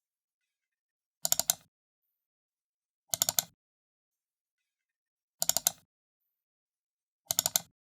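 Computer mouse button double-clicked four times, about two seconds apart. Each double-click is a quick pair of press-and-release clicks, with silence between them.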